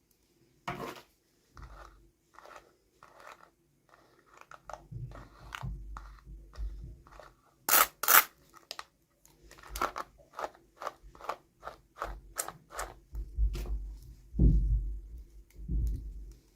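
Hands opening and handling plastic toy packaging: an irregular run of clicks and crackles, with two loud snaps close together about halfway through and dull thumps near the end.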